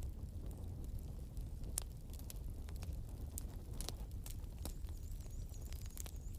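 Bonfire crackling: irregular sharp pops and snaps over a steady low rumble of the burning fire.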